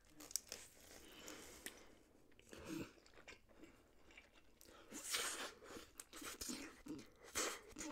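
Close-miked chewing and slurping of instant noodles eaten with a fork, coming in short, irregular wet bursts.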